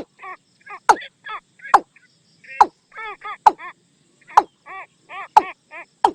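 Watercock decoy call: quick series of short notes that rise and fall in pitch, two or three a second, cut across about once a second by a sharp, loud stroke, the loudest thing heard.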